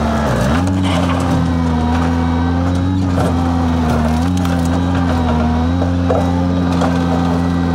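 Skid steer engine running steadily under load while spreading and skimming dirt, dipping briefly in pitch about half a second in, with a higher whine that wavers in pitch and scattered light clanks.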